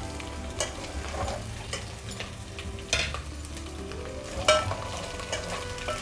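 Cumin seeds, sliced onions and green chillies sizzling in hot oil in an aluminium pot: the cumin being tempered in the oil. A steel ladle stirs them, scraping and clinking against the pot several times.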